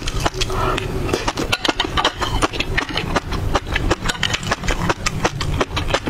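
Close-miked chewing of a mouthful of fish roe, the eggs popping in a fast, uneven run of small crisp clicks over a low mouth rumble.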